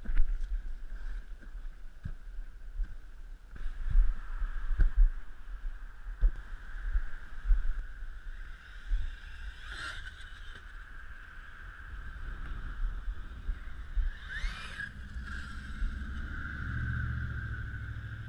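Electric 1/8-scale RC monster truck running, with a steady high motor whine and many low bumps. About fourteen seconds in the pitch sweeps up and back down.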